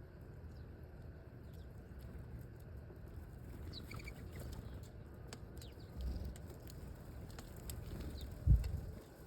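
Small birds giving a few faint, short high chirps, with a low thump about 6 s in and a louder, sharper one at about 8.5 s.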